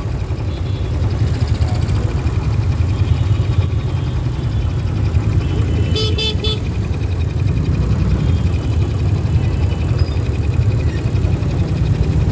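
City road traffic: a steady low rumble of engines, with a vehicle horn tooting in three quick beeps about halfway through.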